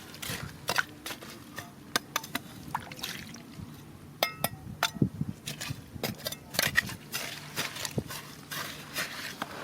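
Water sloshing and trickling, with small stones clicking and clinking against each other, a few of them ringing briefly about four seconds in, over a faint steady low hum.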